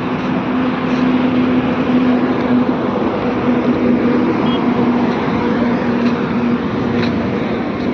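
Motorcycle engine running at a steady speed: a steady, even hum over a loud rushing noise, with no revving.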